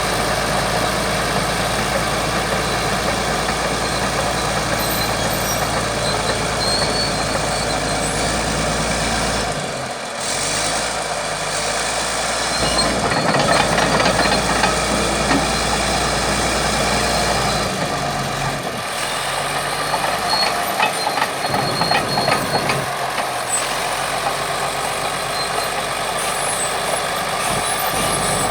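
Heavy diesel engines of bulldozers running steadily. The sound changes abruptly about ten, thirteen and eighteen seconds in.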